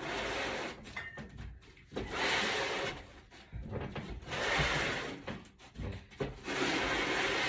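A refrigerator being dragged across the floor, scraping in four rough pushes of about a second each with short pauses between.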